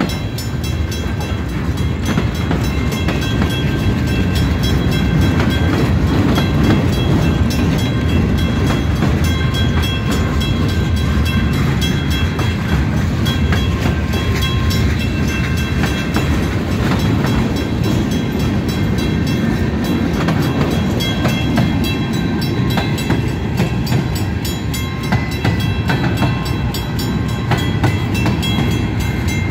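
Freight train's cars rolling past close by, a steady low rumble of steel wheels on the rails with a run of clicks as the wheels cross the rail joints.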